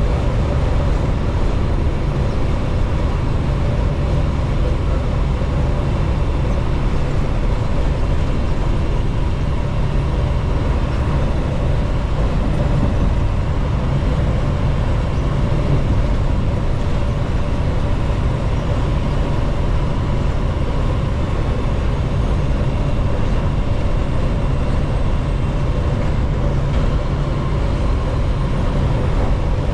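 Semi truck running at road speed, heard from inside the cab: a steady low engine and road rumble with a faint constant hum, unchanging throughout.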